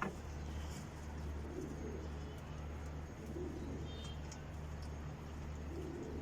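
Domestic pigeons cooing softly, a few separate coos, over a steady low hum.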